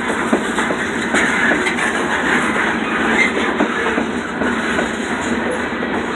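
Freight train cars rolling past at close range, with a steady rumble and irregular clicks and clanks of wheels over the rail joints.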